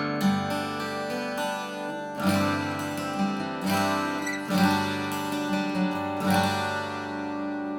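Acoustic guitar being strummed and picked: a chord about every one to two seconds with single notes between them, the last chord left ringing and fading near the end.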